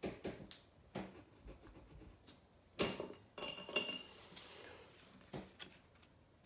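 Pencils being handled on a table, knocking against each other and hard surfaces: a series of sharp clicks and knocks, with a brief ringing clink about three and a half seconds in.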